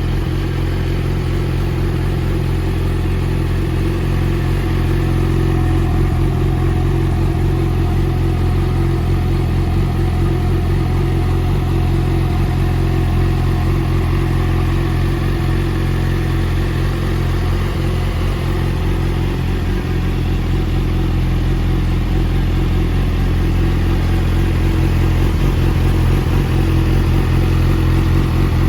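Yamaha YZF-R6's 600 cc inline-four engine idling steadily through an Akrapovič race slip-on exhaust.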